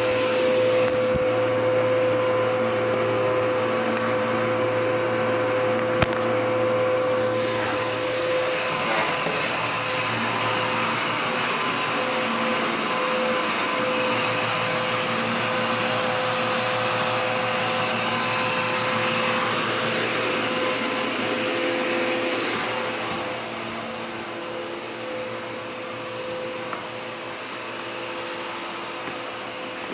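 Dirt Devil Power Max upright vacuum cleaner running steadily, with a motor whine over its rushing airflow. A single click comes about six seconds in, and the sound drops somewhat in level about two-thirds of the way through.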